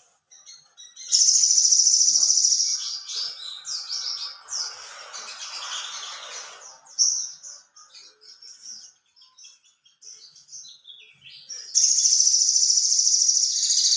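Sogon bird singing: a loud, high, rapid trill (the 'trotol' song) about a second in, then scattered shorter chirps and phrases, and a second long trill near the end.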